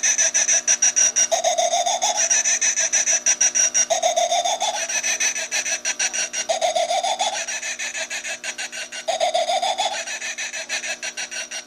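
Motion-activated witch decoration's small built-in speaker playing its recorded scream, a harsh sound with a rapid stutter, the same phrase repeating about every two and a half seconds, then cutting off at the end.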